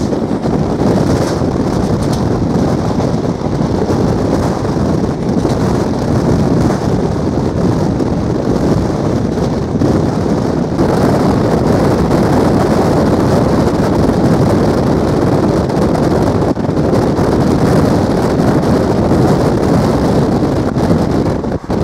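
Steady rumble of a moving passenger train heard from on board, with wind rushing over the microphone.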